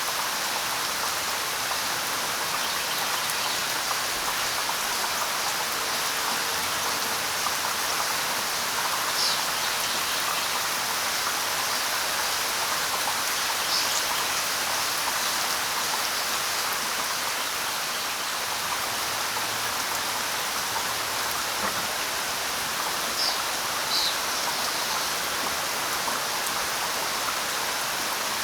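Steady light rain falling on leaves, an even hiss of drops. A few short, high bird chirps come through it, four in all, the last two close together near the end.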